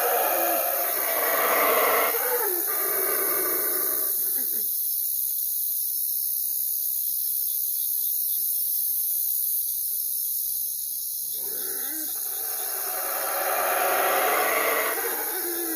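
Owl calling in two long, noisy bouts: one over roughly the first four seconds and another from about twelve seconds in, with a quiet gap between. A steady high hiss runs underneath throughout.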